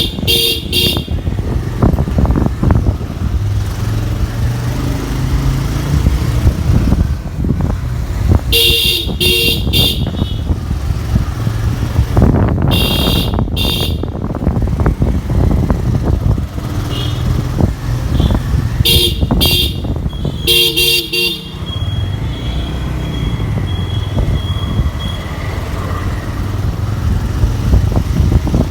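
Road vehicle's engine and road noise rumbling steadily while riding in traffic, broken by four bursts of quick repeated horn toots, the last about twenty seconds in.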